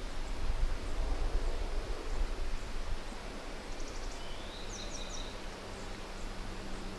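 Steady outdoor background noise with a low rumble. About four seconds in, a small bird gives a brief high call of a few quick notes.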